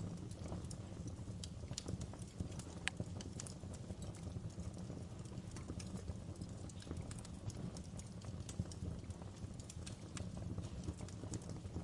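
Wood fire crackling in a fireplace: irregular sharp pops and snaps, a few of them louder, over a steady low rumble of the burning fire.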